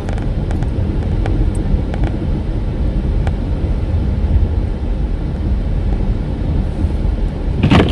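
Steady low road and tyre rumble inside the cabin of a 2019 Toyota RAV4 driving slowly on a snow- and ice-covered road, with a few light clicks and a brief louder noise near the end.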